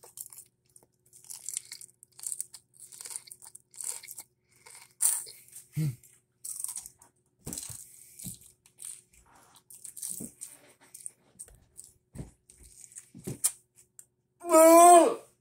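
Mouth crunching and chewing a big bite of raw iceberg lettuce, in short irregular crunches. Near the end a loud, wavering vocal groan from the eater.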